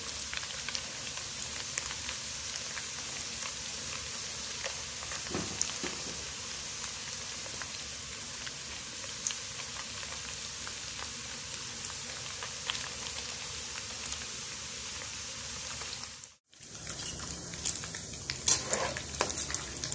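Dried anchovies deep-frying in hot oil in a wok until crisp: a steady sizzling hiss with small crackles. The sound drops out briefly about 16 seconds in, and a few louder knocks and scrapes come near the end.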